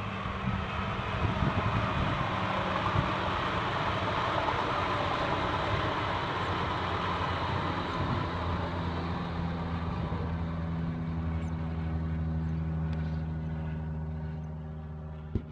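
A train going by: a steady low hum under rolling noise that swells in the first few seconds, then slowly fades toward the end.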